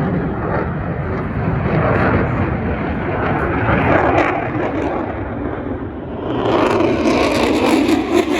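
Airplane engine noise, a loud steady rush. About six and a half seconds in it changes abruptly to a brighter, hissier sound.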